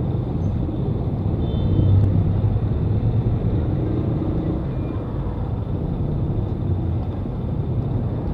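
Steady, low rumble of a motorcycle ride in heavy traffic: engine and surrounding vehicles picked up by an SJCAM external microphone wrapped in tape and cotton to cut wind noise.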